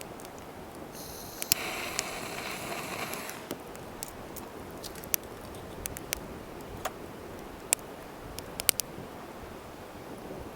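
Wood campfire crackling, with sharp irregular pops scattered throughout. About a second in, a hissing rush rises over it and lasts about two seconds.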